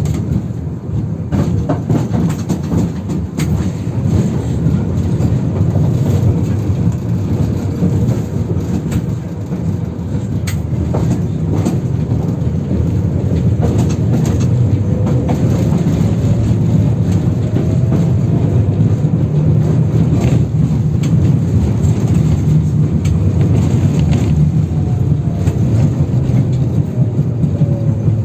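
A 71-608KM tram running, heard from inside: a steady rumble with wheels clicking and knocking over the joints of badly worn rails. The traction motor whine rises in pitch about halfway through as the tram speeds up, and falls again near the end as it slows.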